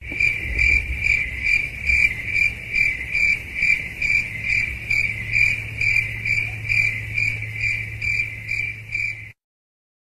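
Cricket chirping, a sound-effect recording: an even run of short chirps, a little over two a second, over a low steady hum, stopping abruptly near the end.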